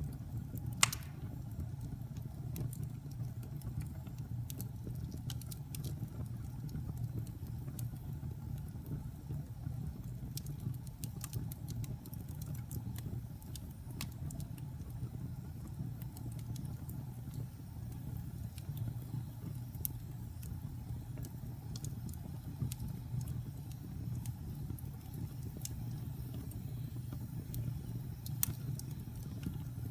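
Wood fire burning in a fireplace: a steady low rumble of the flames with scattered sharp crackles and pops, one louder pop about a second in and another near the end.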